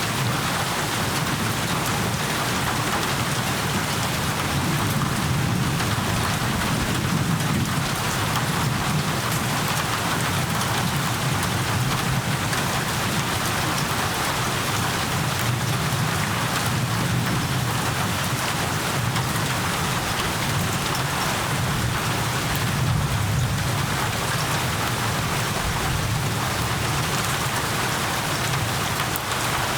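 Steady rain falling in a storm, an even, unbroken hiss with a constant low rumble beneath it.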